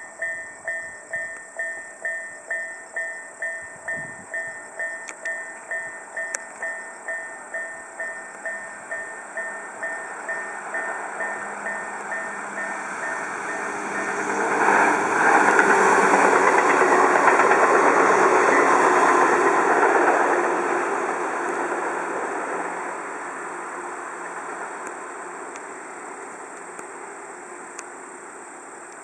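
Level-crossing warning bell ringing about twice a second, fading as the Tobu 634-series 'Skytree Train' electric train approaches. The train's wheels running on the rails swell loud about 14 seconds in as it passes, then die away as it recedes.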